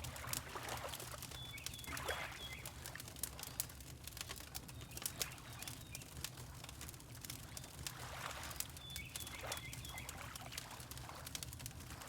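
Layered ambience of a wood fire crackling with many small pops, water lapping in soft swells every few seconds, and a bird giving short high chirps twice, about a second and a half in and again around nine seconds.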